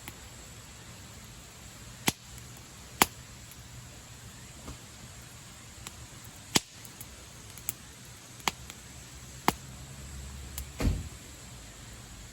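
Campfire wood burning: sharp, irregular crackles and pops, about one every second or two, over a low steady hiss, with a duller knock near the end.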